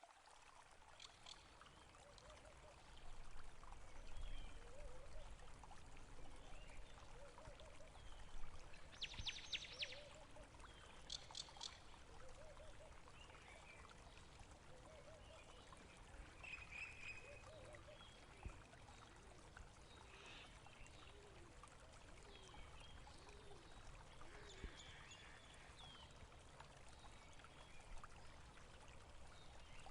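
Faint trickling, gurgling stream water running steadily, with a few brief high chirps or clicks about nine to twelve seconds in.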